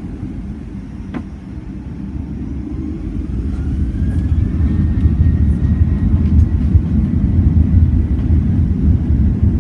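Boeing 737-900ER's CFM56-7B jet engines spooling up to takeoff thrust, heard from inside the cabin. A whine starts rising a couple of seconds in and levels off, over a deep rumble that grows loud and then holds steady as the takeoff roll gets under way.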